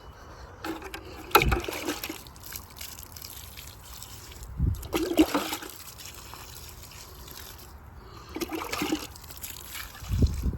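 Water poured from a coconut-shell bowl onto seedlings, in several separate pours and splashes.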